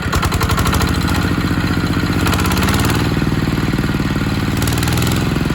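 ZR185 single-cylinder direct-injection diesel engine, new and not yet run in, being throttled up to full speed. It steps up in loudness at the start, its pitch rises from about two seconds in, and it then holds at high revs.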